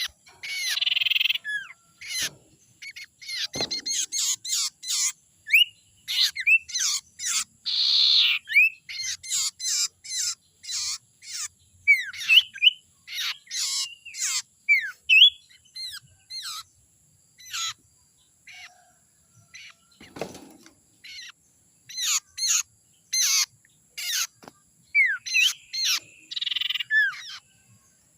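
Sirtu bird calls used as a lure: rapid runs of sharp chirps, quick upward-sweeping whistles and short buzzy notes, thinning out to a pause about two-thirds of the way through before picking up again. Two soft thumps sound about 4 and 20 seconds in.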